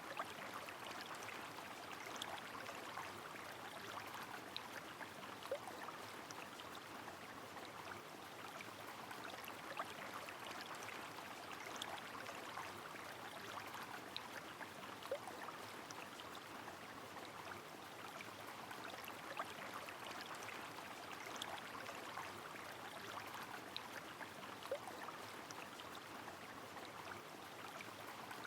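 Steady rain falling together with a flowing river: an even watery hiss with scattered louder drip ticks every second or two.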